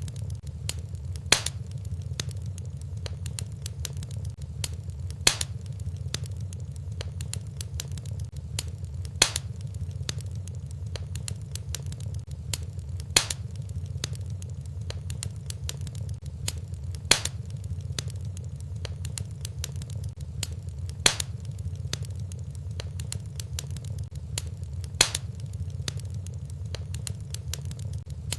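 Wood fire in a fireplace crackling over a steady low rumble, with small crackles throughout and a sharper pop recurring evenly about every four seconds.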